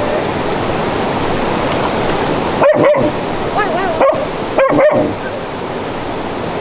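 A dog giving several short barks and a wavering whine in the middle, over the steady rush of a mountain stream.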